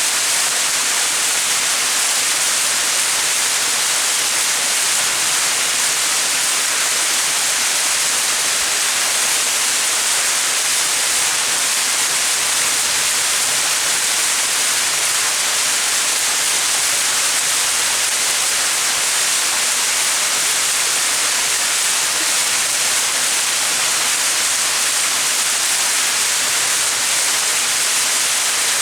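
Small mountain waterfall splashing steadily, an even hiss of falling water without pause or change.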